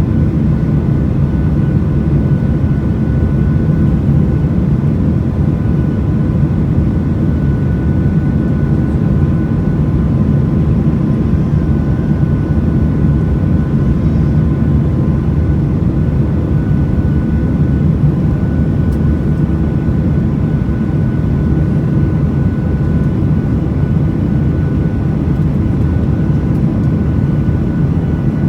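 Boeing 737 in flight heard from inside the passenger cabin: a steady, loud rumble of engines and airflow with faint steady whining tones above it.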